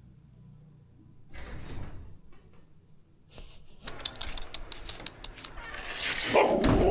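Rapid clicking and rattling, like small hard things being handled, after a brief rustle about a second in; the clicks grow denser and louder toward the end, where a short pitched sound joins them.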